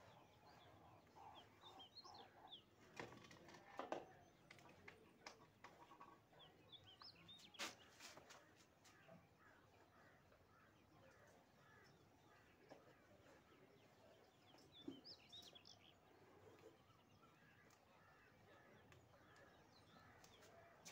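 Near silence with faint bird chirps in the background and a few soft taps and rustles, the loudest a little after three and nearly eight seconds in.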